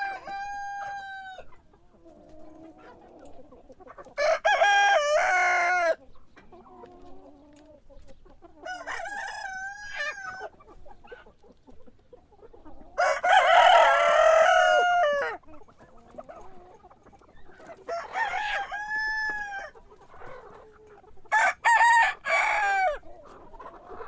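Rooster crowing again and again, a long cock-a-doodle-doo about every four seconds, the loudest in the middle, with softer clucking between the crows.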